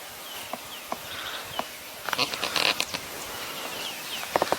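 Bush ambience: several short, downward-sliding bird chirps and scattered sharp clicks, with a brief burst of rustling noise about two seconds in.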